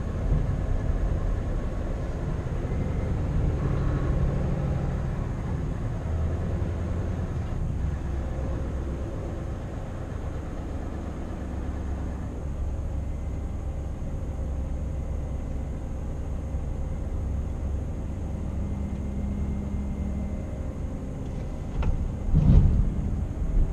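Scania R520 truck's V8 diesel running steadily under way, a low drone mixed with road noise. Near the end there is a brief, louder thump.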